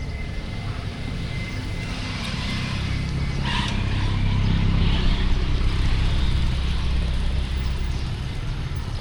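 City street traffic: a motor vehicle's engine rumble swells over a few seconds and then slowly fades as it passes close by.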